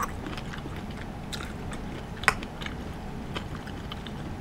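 Close-miked chewing of a mouthful of hot pot food, with many small wet mouth clicks and one sharper click about two seconds in.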